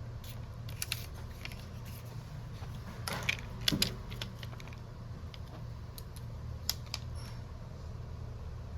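Scattered light clicks and taps of small tools and phone parts being handled during a smartphone screen repair, loudest in a quick cluster about three to four seconds in, over a steady low hum.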